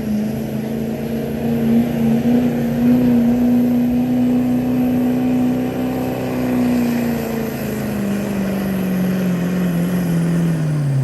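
Diesel pickup truck's engine held at high revs under full load while pulling the sled. Its pitch sags over the last few seconds as the truck bogs down, then dips sharply and comes briefly back up near the end of the pull.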